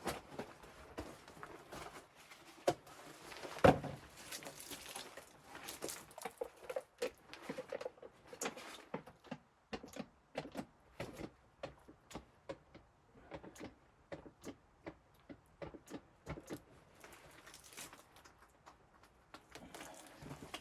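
A run of irregular clicks and knocks, with a louder thump about three and a half seconds in.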